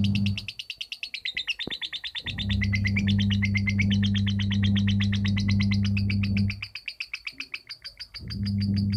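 Lovebird singing a long, unbroken run of rapid high chattering notes (the 'ngekek' trill) that never pauses: the continuous delivery that bird keepers call 'konslet'. A steady low hum sits under it and cuts out twice for a second or two.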